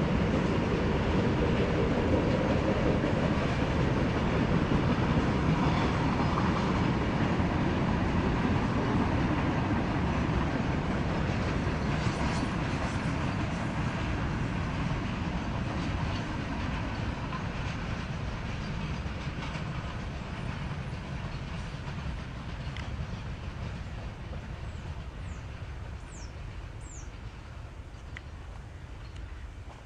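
Diesel-hauled train running over a railway bridge, its wheels clattering on the rails, the rumble steadily fading as the train moves away. A few short high chirps sound near the end.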